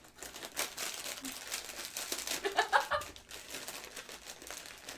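Crinkly foil snack bag of turkey and stuffing crisps being handled and pulled open, a run of irregular crackles, with a brief vocal sound about two and a half seconds in.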